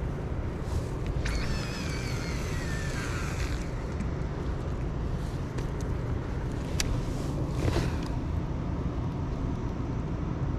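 Steady low rumbling noise, with a falling whistle about a second and a half in and one sharp click past the middle.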